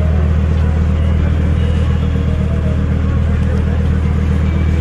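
A car's steady low rumble, running evenly with no revving or change in pitch.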